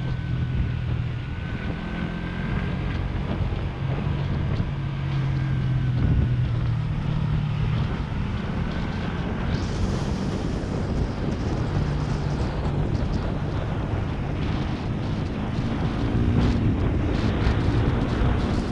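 Motorcycle engine running while riding, its note shifting several times, with wind rushing over the microphone.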